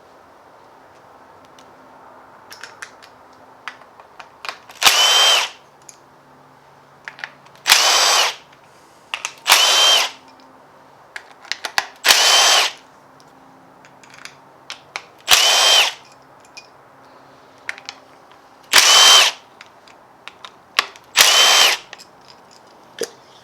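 Handheld power tool with a socket run in seven short bursts, about half a second to a second each, spinning bolts out of an engine being torn down. Small clicks and clinks of parts sound between the bursts.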